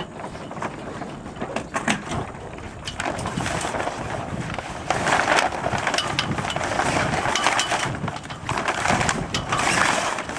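Flying Scot mainsail being lowered and gathered by hand: sailcloth crinkling and rustling in bursts, with scattered sharp clicks, loudest about halfway through and again near the end.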